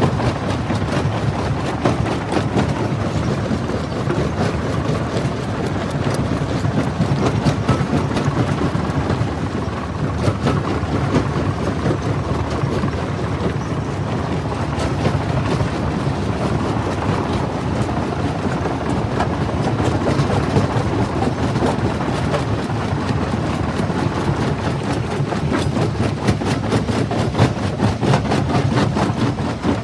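Jaw rock crusher running and breaking stone: a steady heavy mechanical rumble with many small sharp cracks and knocks of rock being crushed.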